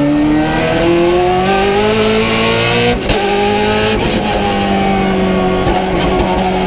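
Race car engine under power, its note rising steadily for about three seconds, then a brief break and a roughly steady note.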